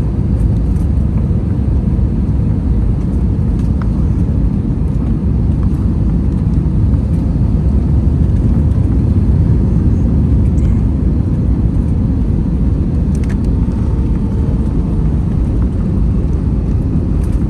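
Steady low rumble inside the passenger cabin of an Airbus A321 with IAE V2500 engines, with a faint steady tone above the roar.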